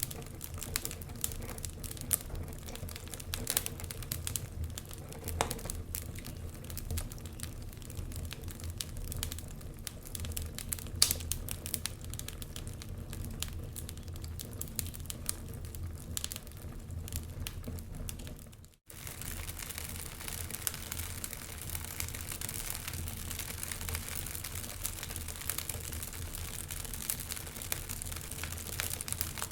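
Wood fire crackling in a fireplace: irregular sharp pops and snaps over a steady hiss and low hum. About 19 seconds in, the sound cuts out for an instant and comes back with a denser hiss.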